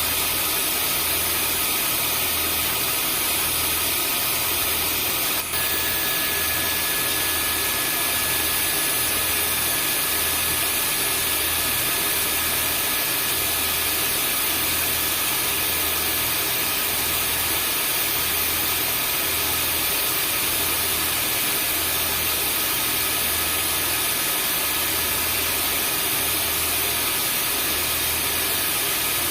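Vacuum cleaner running steadily as white noise: a constant rushing hiss with a thin high whine, over a low hum that pulses about every second and a half. A brief click about five seconds in, after which a whine tone stands out more clearly.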